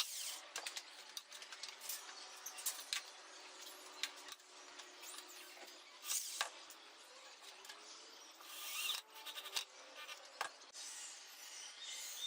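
Intermittent workshop tool noise: irregular scraping and rubbing bursts with a few sharp knocks.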